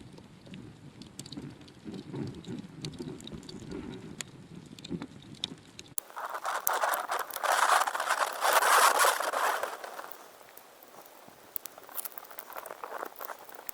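Wood campfire crackling, with scattered sharp pops. About six seconds in the sound cuts to a louder hissing rush that swells and fades over about four seconds, still dotted with pops.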